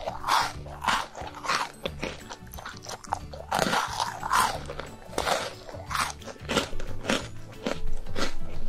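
Close-miked chewing and biting of cocoa-dusted chocolate pieces: a rapid, irregular run of wet mouth clicks and short crunchy bites, with soft background music under it.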